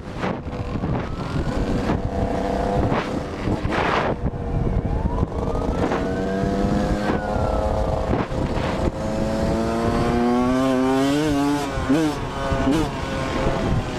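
Motor vehicle engine running over road and wind noise, its pitch rising and falling as it revs, with quick wavering revs in the last few seconds.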